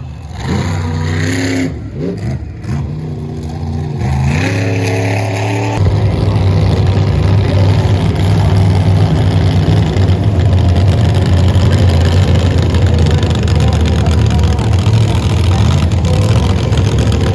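Monster truck engines revving in short up-and-down bursts. About six seconds in, they jump suddenly to a loud, steady full-throttle run.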